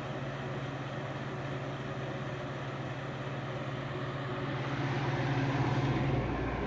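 Early-1990s Capehart 40-pint dehumidifier running normally just after startup: a steady electrical hum with even fan air noise, getting a little louder after about four seconds.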